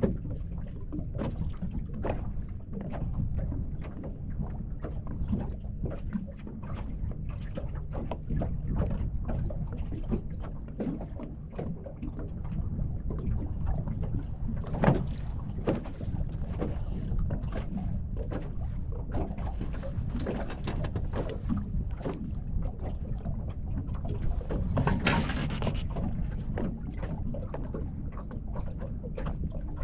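Wind buffeting the microphone and water slapping against a small fishing boat, with scattered knocks on the hull and one sharper knock about halfway. Two brief hisses come in the second half.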